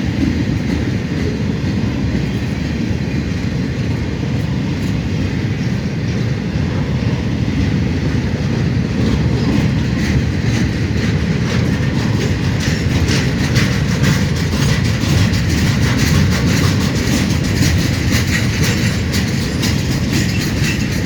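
CSX maintenance-of-way train rolling past with a steady rumble of steel wheels on rail, and wheels clicking over rail joints more and more often from about halfway through.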